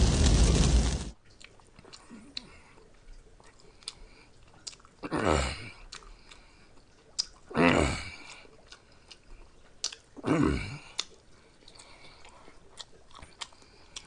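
An edited fiery explosion sound effect cuts off about a second in. Then a man chews spicy noodles with small wet mouth clicks, and three times he blows out a heavy breath through pursed lips from the chilli heat, each breath gusting on the microphone.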